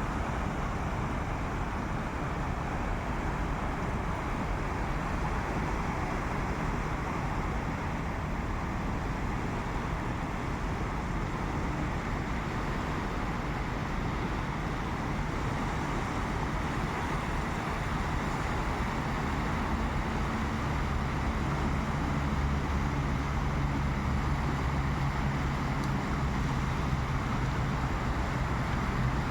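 Steady seaside wash of wind and surf noise, with an engine's low hum growing louder from about two-thirds of the way through.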